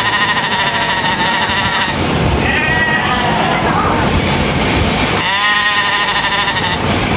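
Sheep bleating: a long wavering bleat at the start, a short one about three seconds in, and another long bleat from about five seconds in.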